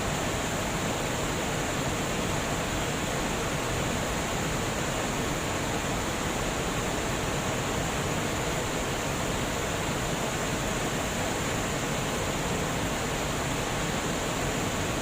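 Water rushing steadily from a dam, a constant even rush with no breaks.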